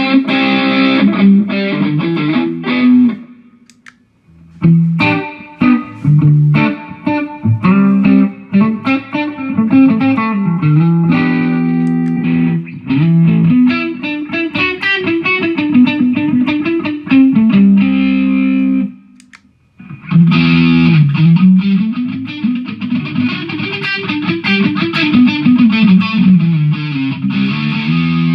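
Jackson electric guitar played through a Mooer GE150 multi-effects processor with distortion, running riffs and melodic phrases. It breaks off briefly twice: after about three seconds and again about two-thirds of the way through.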